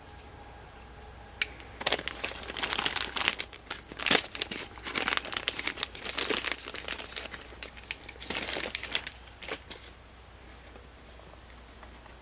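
Plastic packaging crinkling and tearing in irregular handfuls as it is pulled and cut open, with a single sharp click just before it starts.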